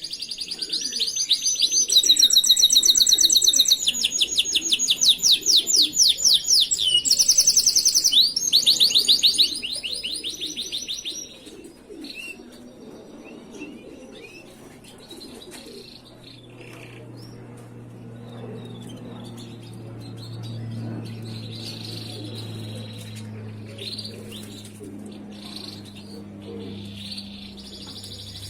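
Domestic canary singing: loud rolling trills of rapidly repeated high notes, changing phrase every second or two, for about the first ten seconds. After that come softer scattered chirps over a low steady hum.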